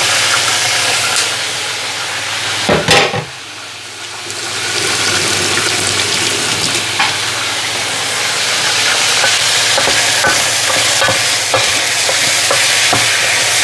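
Chicken pieces sizzling in hot oil in a pan while being stirred, with short clicks of the utensil against the pan. A loud clatter about three seconds in, after which the sizzling is briefly quieter before building again.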